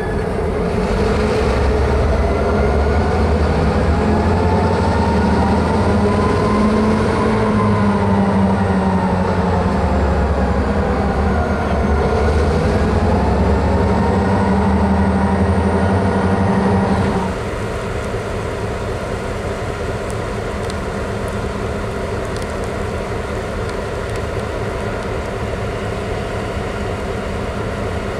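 Diesel freight train running, with locomotive engine pitch that rises and falls. About 17 seconds in the sound drops suddenly to a quieter, steady running sound.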